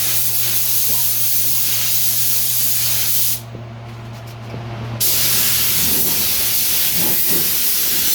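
Compressed-air paint spray gun spraying in two passes. Each pass is a loud, steady hiss. The first stops about three seconds in, and the second starts again under two seconds later.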